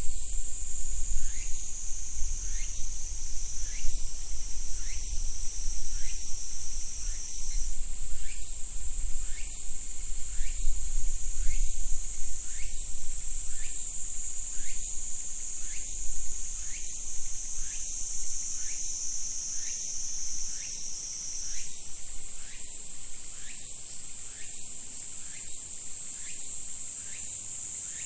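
Insects chirring in a steady high-pitched chorus, with a faint regular pulsing about one and a half times a second and a low rumble underneath.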